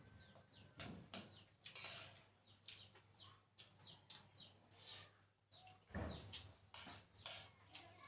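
Faint eating sounds: chewing with scattered light clicks and taps, a few louder ones around a second, two and six seconds in. Small birds chirp faintly in the background, short falling chirps repeated every half second or so.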